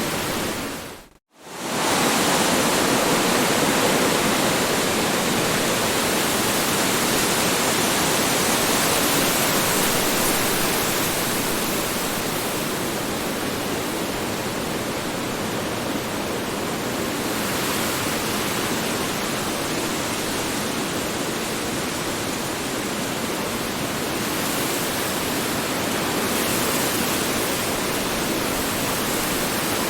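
Strong wind blowing, a steady rushing with slow swells in strength. About a second in it dips briefly to silence and comes straight back.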